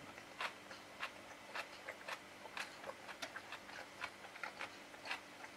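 Quiet mouth sounds of someone chewing a bite of a bread roll with beef tartare and pickle: small irregular wet clicks, a few a second.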